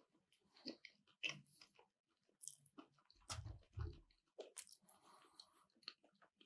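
Faint close-up chewing of sushi: wet mouth clicks and smacks, with two soft low thumps a little past the middle.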